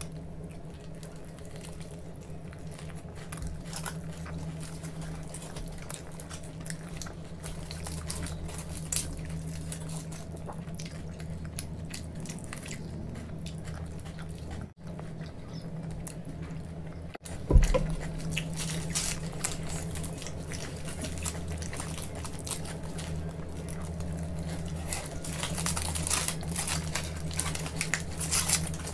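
Close-miked chewing and biting of soft paneer rolls, with many small wet mouth clicks and smacks, over a steady low hum. A single loud thump comes a little past halfway.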